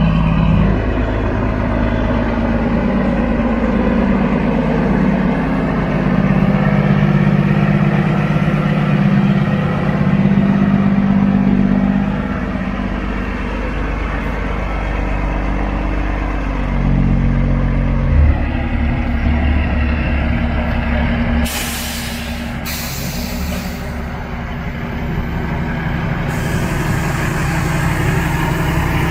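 Truck engines running steadily, their pitch shifting a few times. Short air hisses from the trucks' air brakes come about two-thirds of the way in, twice.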